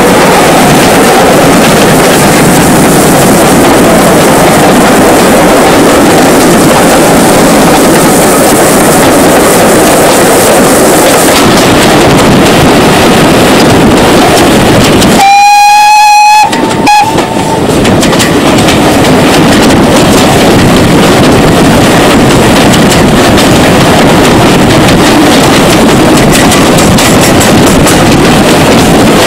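Steam train running, a loud steady rumble with rushing noise, and a steam locomotive whistle sounding one blast of about a second about halfway through, followed by a short pip.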